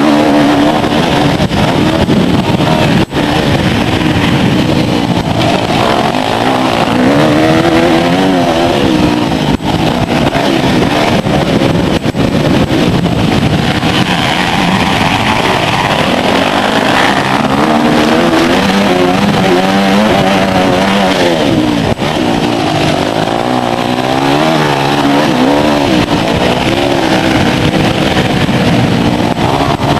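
Motocross bike engines running hard on the track, their pitch rising and falling again and again as the riders work the throttle and shift through the corners and jumps.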